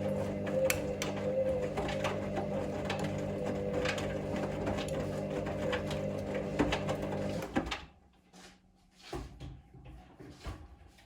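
Hoover Link washing machine tumbling its drum in the main wash: a steady motor hum with clicks and knocks of the wash load, which stops abruptly about three quarters of the way in, the drum pausing between tumbles, leaving only a few faint knocks.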